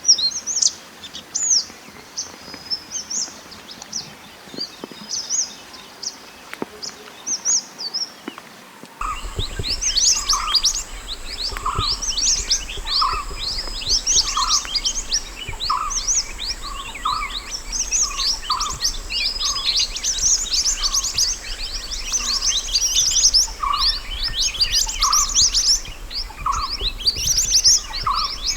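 Wild mantenan gunung song: rapid, high-pitched chirps and trills. About nine seconds in, the recording switches to a louder take with a low hum and a faint high whine underneath, where short, lower whistled notes repeat about twice a second between the chirps.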